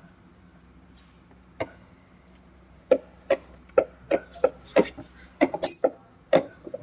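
Hand-tool work on the fuel filter fittings under a pickup: one sharp click, then a string of sharp clicks and knocks, about three a second for a few seconds.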